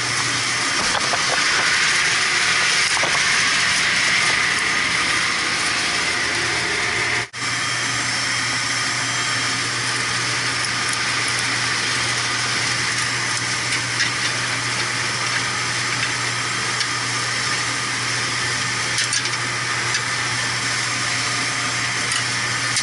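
Steady machinery drone in a boiler room: an even hiss with a constant low hum. It drops out for an instant about seven seconds in, then carries on unchanged.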